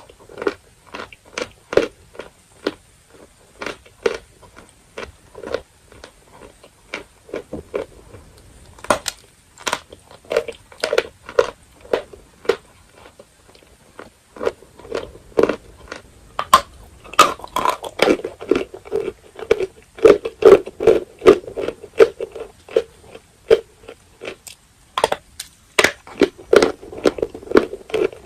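Dry edible chalk being bitten and chewed: a steady run of sharp, crisp crunches that come thick and fast in stretches of chewing.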